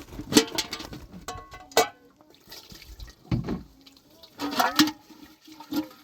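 Water splashing and pouring in short irregular bursts, with sharp clicks and knocks among them.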